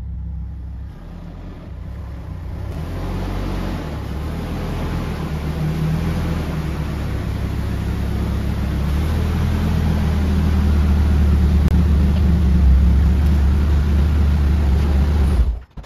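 Nissan S13 hatchback's engine running as the car pulls into a garage, growing louder as it comes closer, then cutting off abruptly near the end.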